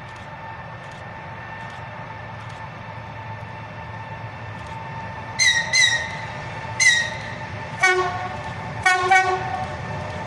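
EP20 electric locomotive approaching with a rumble that grows steadily louder. About halfway in it gives three short high-pitched whistle toots, followed by two deeper, multi-tone horn blasts about a second apart, sounded as a greeting.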